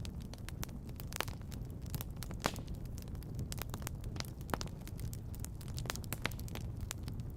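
Wood fire crackling, with sharp irregular pops and snaps over a steady low rumble; the loudest pop comes about two and a half seconds in.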